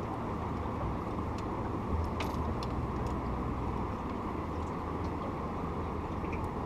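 Boat motor running steadily at low speed, a low hum under a wash of rushing noise, with a few faint ticks.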